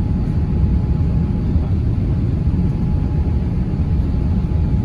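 Steady low rumble of cabin noise aboard an Airbus A350-900 airliner, with a faint steady higher tone running above it.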